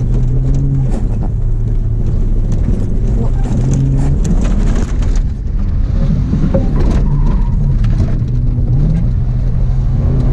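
Holden VS Commodore engine running hard while the car is thrashed around a dirt paddock, its note dropping and climbing again partway through. Many knocks and rattles sound over it as the car bounces over rough ground.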